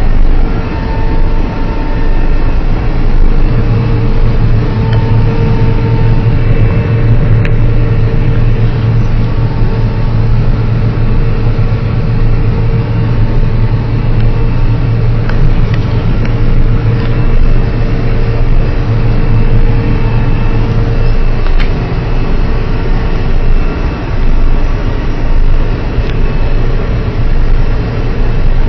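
John Deere CTS combine harvester running steadily while harvesting wheat: the engine and threshing machinery keep up a loud, even drone with a strong low hum.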